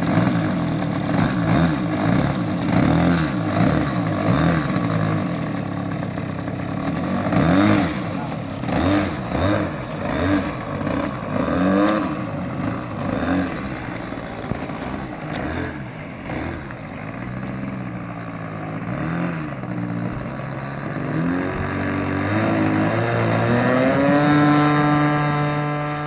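Engine of a Hangar 9 Piper Pawnee 40 RC model airplane running, its pitch repeatedly rising and falling with throttle changes and passes. Near the end the pitch climbs and then holds steady.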